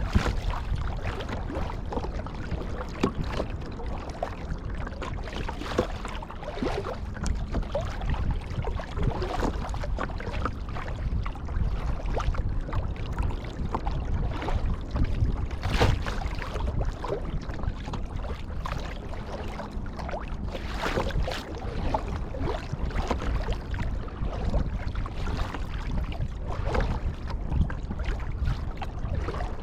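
Sea kayak being paddled on open salt water: paddle blades dipping and splashing and water washing along the hull, with wind rumbling on the microphone.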